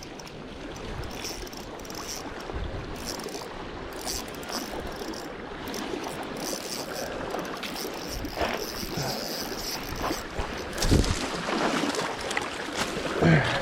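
Strong wind rushing over the microphone, with water washing at the shoreline. There is a single thump about eleven seconds in.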